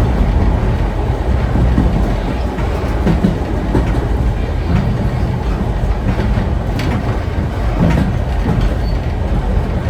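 Heritage steam train coach running along the track: a steady low rumble of wheels on rails, with a few sharp clicks from the rail joints.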